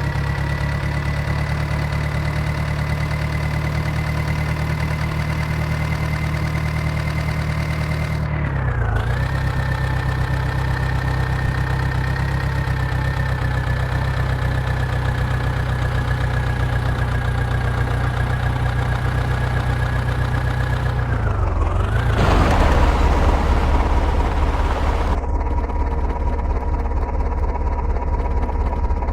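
Diesel engine of a JCB backhoe loader running steadily while loading mud. Its pitch sags briefly twice as it takes load, and it runs louder and rougher for a few seconds before settling to a lower, steady note.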